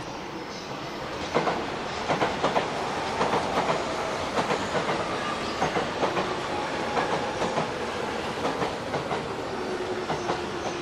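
E231-800 series electric commuter train rolling past as it comes into the station, its wheels knocking over rail joints in quick groups as each bogie passes, over a steady rolling noise. A low whine falls slightly near the end as the train slows.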